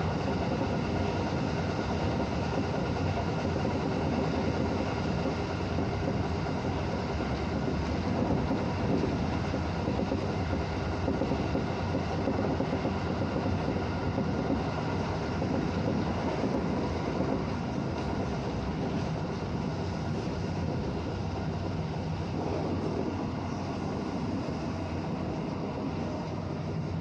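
Electric commuter train running on the line, heard from inside the front cab: a steady rolling rumble with a low hum. The sound eases slightly near the end as the train slows into a station.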